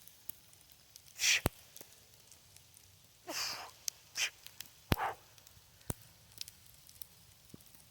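A person breathing hard in four short, sharp breaths and exhales, the first the loudest and one drawn out a little longer, as during the effort of a heavy kettlebell press. A few sharp ticks are scattered between them.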